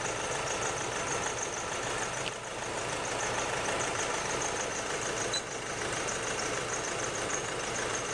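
Nissan Navara D40's 2.5 common-rail turbo diesel idling steadily but roughly, with a cylinder misfire.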